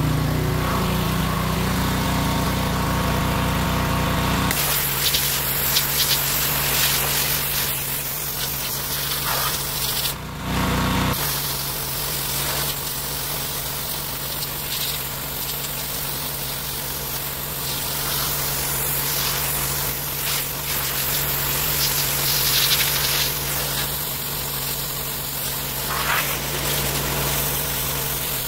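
Gas pressure washer engine running steadily while the wand sprays water against a truck's body, a continuous hiss over the engine hum. The engine note shifts about four seconds in, and again briefly around ten seconds, as the spray starts and stops.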